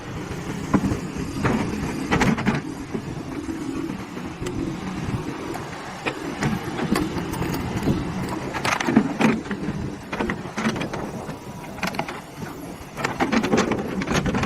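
Excavator running with a steady low engine hum, broken by several clusters of sharp knocks and rattles.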